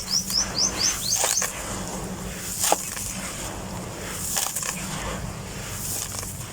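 White grain-coated chalky shapes being crumbled and crushed by hand: irregular crunchy crackling, with one sharp crack about two and a half seconds in. A run of quick, high rising chirps sounds near the start.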